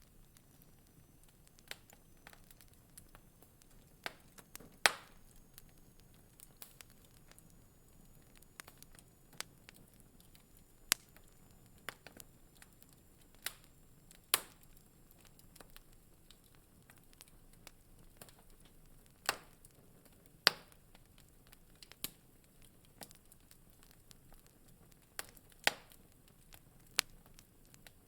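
Wood fire crackling in a fireplace: irregular sharp pops and snaps, some loud, over a faint low hiss.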